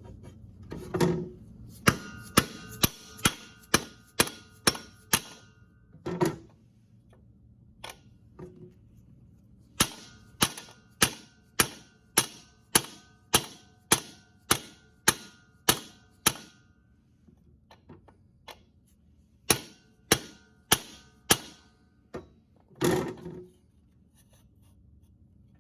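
Hammer blows on metal in runs of quick, even strikes, about two to three a second, each with a short metallic ring. A few duller, heavier knocks fall between the runs. It is the sound of a part being tapped into place while a tractor's water pump and pulley are refitted.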